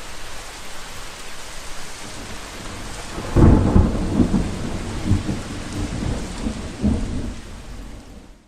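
Steady rain, then a loud clap of thunder about three and a half seconds in that rumbles on in several swells for a few seconds. The rain and thunder fade out at the very end.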